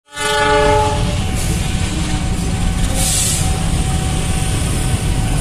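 Diesel locomotive hauling a freight train of container wagons past, a steady low rumble of engine and rolling wagons. It opens with a short horn-like pitched tone that fades within about a second, and there is a brief hiss about three seconds in.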